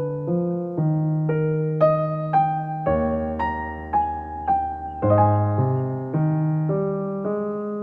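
Soft background piano music: a slow, gentle melody of single struck notes about two a second over sustained bass notes.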